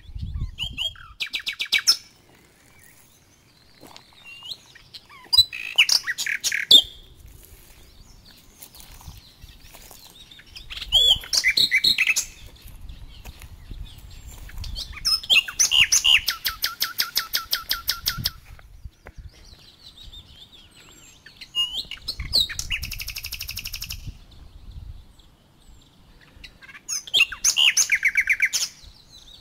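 A bird calling in fast, evenly pulsed trills: about six high-pitched bursts, each a second or two long, repeated every four to five seconds.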